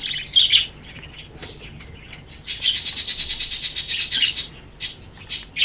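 Budgerigars chirping in an aviary: a few short high chirps, then about two seconds in a fast rasping chatter of rapid pulses, followed by more quick chirps near the end.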